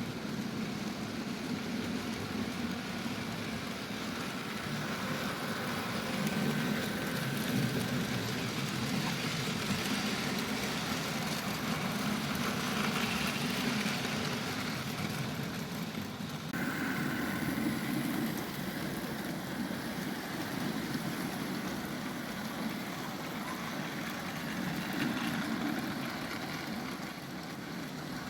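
Model railway locomotives running on the track with their freight wagons: the steady whirr of small DC electric motors and the rumble of wheels on the rails. The sound changes abruptly about two-thirds of the way through.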